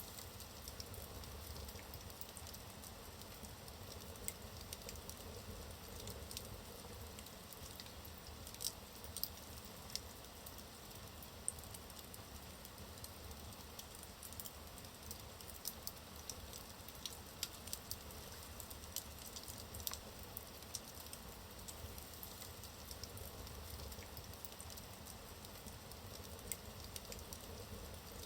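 Wood fire burning in a fireplace: a soft steady hiss with frequent small irregular crackles and pops from the burning logs.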